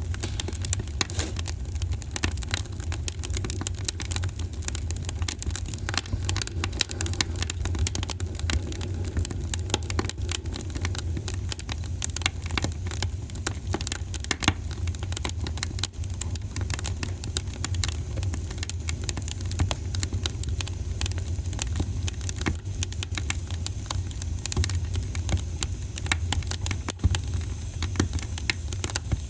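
Wood fire in a fireplace crackling, with dense, irregular pops and snaps over a steady low rumble.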